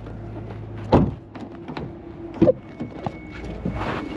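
A car door shutting with a thunk about a second in, then a lighter knock, over the low hum of a car.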